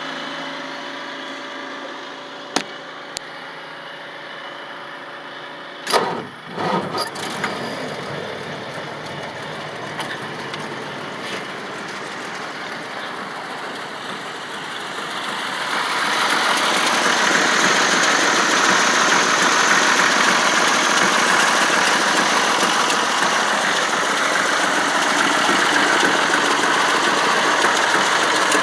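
A steady hum, likely the heater blower, with two sharp clicks. About six seconds in, the 1949 Hudson Super Six's flathead straight-six is cranked and catches on a cold start, then keeps running. About fifteen seconds in it gets louder and stays up.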